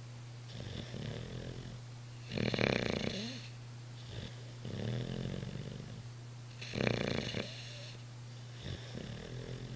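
Olde English Bulldogge snoring in its sleep, with louder and softer snores alternating: the louder ones come about every four seconds.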